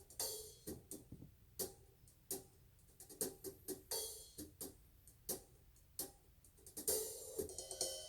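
Recorded music played back through B&W Nautilus 802 loudspeakers, captured on a phone: sparse drum hits and cymbals, with sustained pitched notes joining about seven seconds in.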